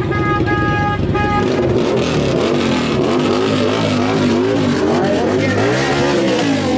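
Vehicle engine in a burnout pit revving hard again and again, its pitch swinging up and down, over a thick wash of noise. In the first second and a half there are several short beeping tones.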